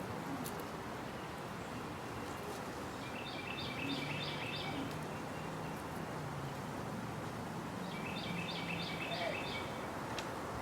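A songbird sings two short phrases about five seconds apart, each a quick run of about six repeated notes. Under it lies a steady outdoor background hiss.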